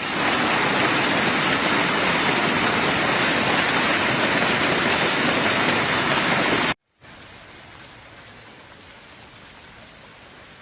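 Heavy rain pouring down, a loud steady hiss that cuts off abruptly about two-thirds of the way through; after a brief gap a much quieter steady hiss of rain continues.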